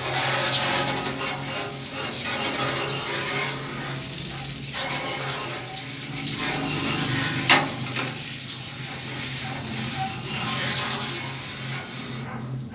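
Running water rinsing parts of a window air conditioner, a steady hiss, with a steady low hum beneath it. There is one sharp knock about halfway through.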